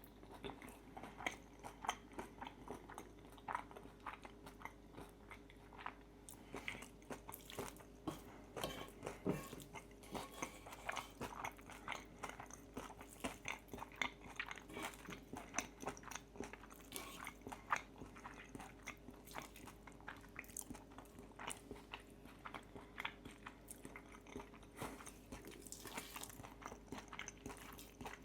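Close-miked eating of pistachio pesto fettuccine with crispy bacon: a steady run of irregular crunches, bites and wet chewing.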